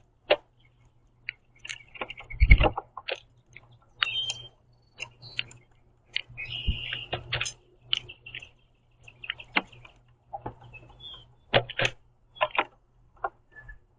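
Common Grackles feeding on a platform feeder: irregular taps and clicks of beaks pecking at seeds, mixed with short calls. Two heavier thumps come about two and a half and seven seconds in.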